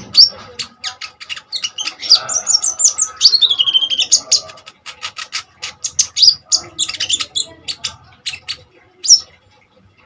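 Kolibri ninja sunbird singing in rapid, high, sharp chirps and twittering trills, dense at first, then thinning out and stopping about nine seconds in.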